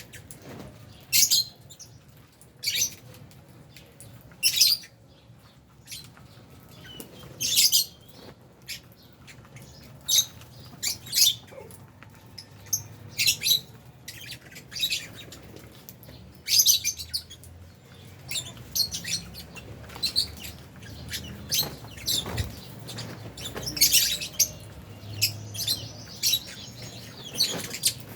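A colony of lovebirds, albino and Fisher's, chirping: short, sharp, high-pitched calls every second or two, some louder than others, over a faint low hum.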